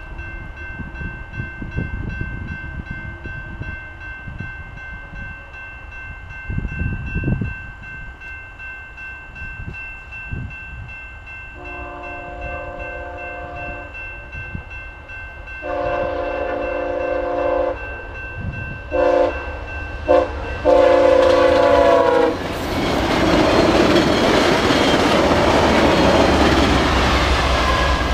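Level-crossing bell ringing steadily while an approaching Via Rail passenger train's locomotive horn sounds the crossing signal, starting about twelve seconds in: two long blasts, two short ones and a final long one. Then the train reaches the crossing, and the loud rush of locomotive and wheels on the rails takes over. Low thumps of wind on the microphone come in the first seconds.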